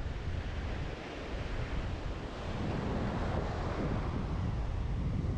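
Wind buffeting the microphone with a low rumble, over the wash of surf breaking on the beach.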